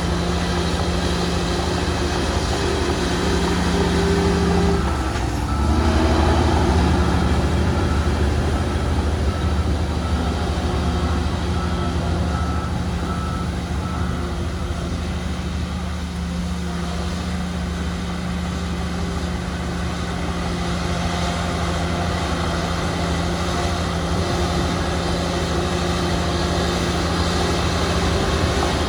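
Heavy diesel earthmoving machinery running steadily, with a strong low rumble. About five seconds in, the engine note drops and the rumble grows louder. For several seconds after that there is a faint, even beeping.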